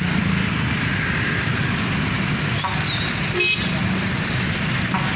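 Heavy road traffic of buses and trucks: steady engine rumble and tyre noise, with a brief vehicle horn toot about three seconds in.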